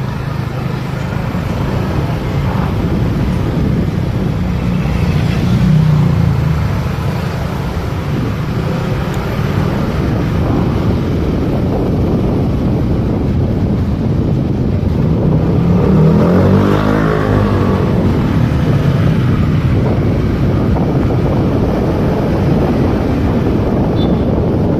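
Motorcycle on the move in traffic: steady engine and road noise, with wind on the microphone. About two-thirds of the way through, a louder vehicle passes close by.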